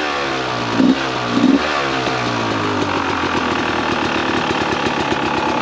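Two-stroke single-cylinder engine of a 2017 Beta 300RR dirt bike running, its pitch falling off at first, with two short throttle blips about a second and a second and a half in, then settling to a steady low run.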